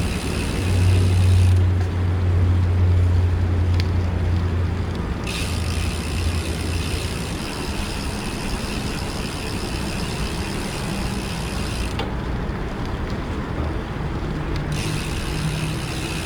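Bicycle riding through city traffic: steady road and wind rumble with the mechanical ticking of the bike's freewheel while coasting. A nearby vehicle's low engine hum is heard for the first five seconds or so, then fades.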